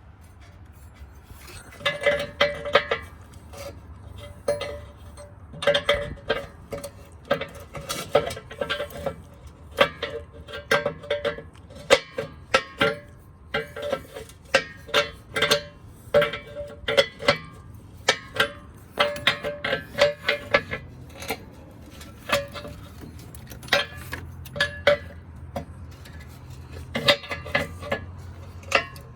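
Metal hand tools clinking and ticking against steel air-line fittings, in quick irregular runs of sharp ringing clicks that start about two seconds in.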